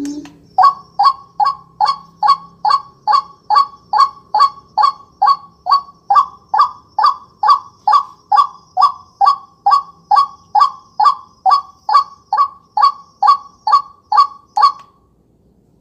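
Recorded bird call played through a bird-caller speaker for hunting: a loud, honking call repeated about twice a second, about thirty times, then cut off abruptly near the end.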